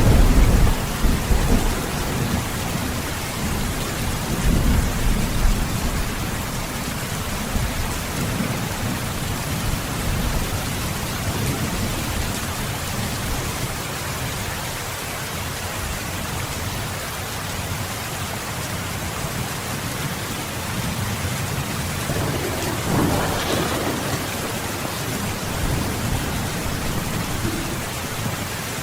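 Heavy rain falling steadily, with low rolling thunder right at the start and again a few seconds in, and a brief louder swell about two-thirds of the way through.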